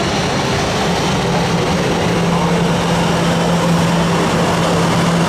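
Jet airliner engines running at the airport: a steady loud rush with a steady low hum underneath that becomes stronger about two seconds in.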